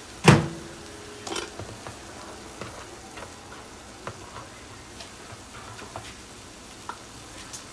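Chicken frying in a wok: a steady low sizzle with scattered light crackles. A sharp knock sounds just after the start and a smaller one about a second later.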